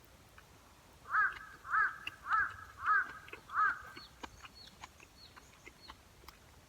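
A crow calling, five harsh caws in a row, about one every half second to second.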